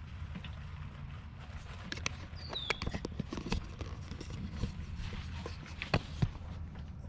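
Irregular clicks and taps of objects being handled, over a steady low hum, with a short high chirp about two and a half seconds in.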